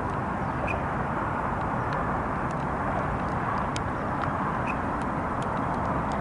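Steady jet aircraft noise filling an airport apron, an even rushing roar without clear changes in pitch. A few faint short ticks and two brief high chirps sit over it.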